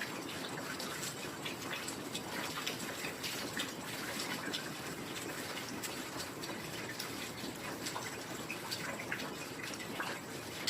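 Heavy rain falling steadily, a constant hiss scattered with many crisp individual drop hits and splashes.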